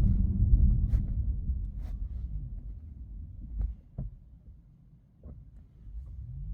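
Cabin road noise of a Tesla Model S braking gently from 30 km/h, a low rumble that fades away as the car slows to a stop about five seconds in, with a few faint light clicks. It is a brake test for squeaks and rattles, and no clear knock stands out.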